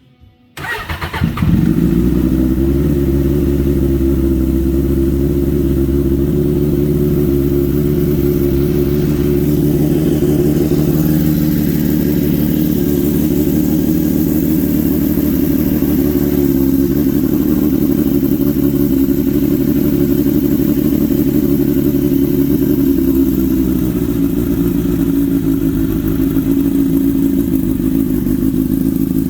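1992 Suzuki GSX-R750 inline-four engine started up: it cranks and catches about a second in, then idles steadily and loudly, its pitch easing slightly lower about three-quarters of the way through.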